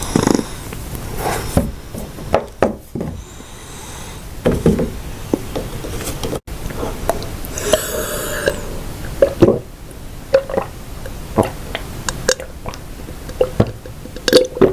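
Close-miked biting and chewing of hard, dry edible clay: irregular sharp crunches and cracks, several a second, some much louder than others, with a brief hiss about eight seconds in.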